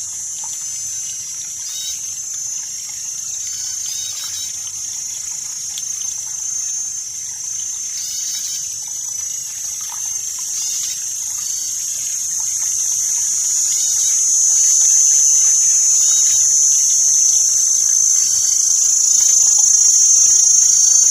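Insects chirring in a steady high-pitched drone that grows louder about two-thirds of the way through, over a trickle of running water, with short scattered calls now and then.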